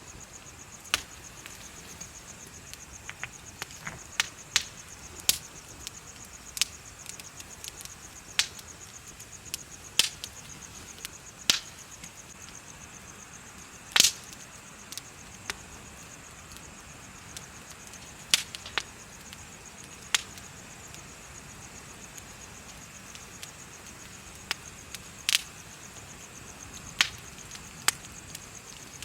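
Wood fire crackling, with irregular sharp pops every second or two, the loudest about halfway through, over steady high-pitched insects chirping.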